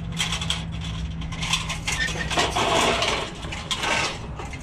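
Scrap metal and wire rattling and clattering as it is handled and loaded, with a denser clatter a little past halfway, over a steady low engine hum that stops about halfway through.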